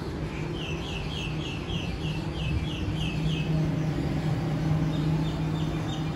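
Double-deck electric train moving slowly past the platform with a steady low motor hum that swells slightly midway. Over it come runs of short high chirps, about three a second.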